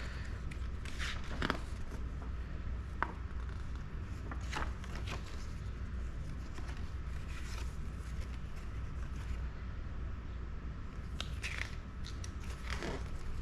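Paper and plastic packaging rustling, with scattered light clicks and scrapes, as toy box contents are handled; a steady low hum runs underneath.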